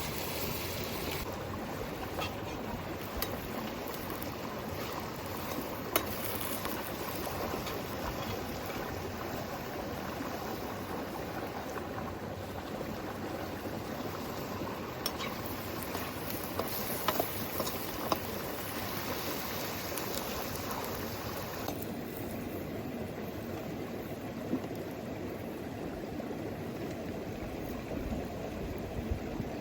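Steady sound of moving water, with a few faint, sharp clicks. About two-thirds of the way through, the brighter, higher part of the sound drops away.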